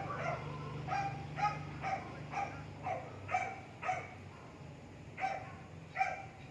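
A dog barking in a steady series of short barks, about two a second, with a brief pause about two-thirds of the way through. A low hum fades out in the first half.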